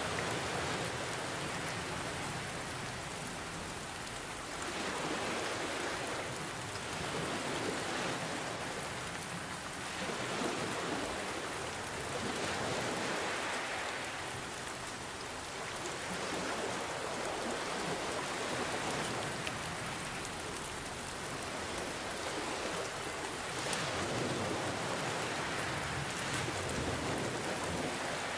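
Steady rain falling, with ocean waves swelling and washing back every few seconds under it.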